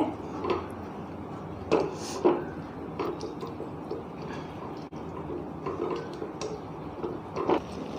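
Chilli chicken sauce bubbling and sputtering in a pan over high flame as it thickens, with a few scattered soft knocks.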